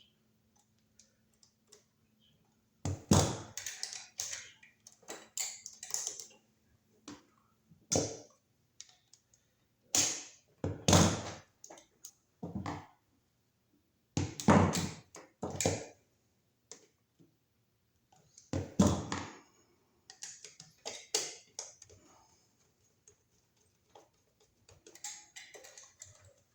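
Irregular clicks, taps and short scrapes of hand tools working a wire onto a receptacle: the white wire being looped and tightened under the silver terminal screw.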